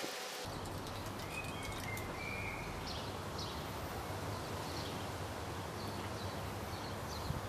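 Small birds chirping faintly, in short high calls, over a steady low outdoor hum.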